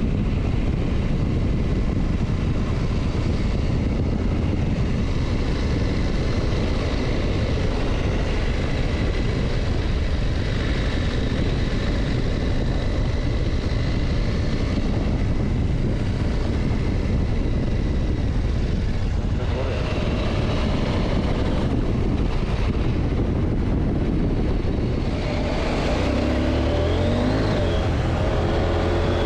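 KTM motorcycle running at riding speed, with heavy wind rush on the microphone and a steady engine note. Near the end the engine's pitch moves up and down.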